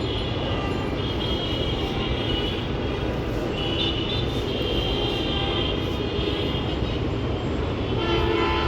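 Steady city road traffic noise, with drawn-out vehicle horn tones sounding on and off.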